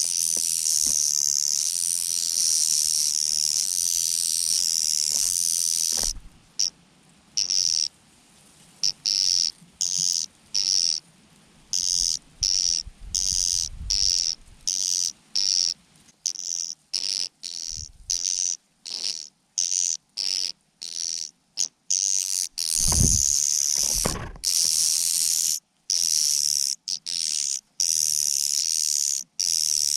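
Shrill, high-pitched begging calls of hungry mynas competing for food. The calling is steady for about six seconds, then breaks into short bursts that start and stop abruptly. Two dull thumps come a little over twenty seconds in.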